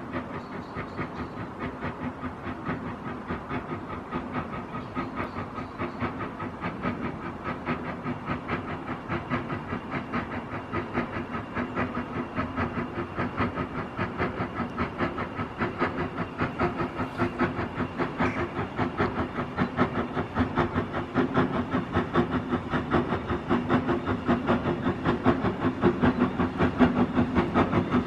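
Hunslet Austerity 0-6-0 saddle tank steam locomotive working a train, its exhaust beats coming in an even rhythm and growing steadily louder as it draws nearer.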